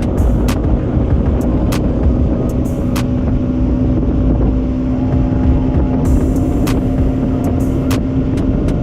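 Bajaj Pulsar NS200's single-cylinder engine running steadily while riding, with heavy wind rumble on the microphone. Scattered sharp ticks of raindrops strike the camera.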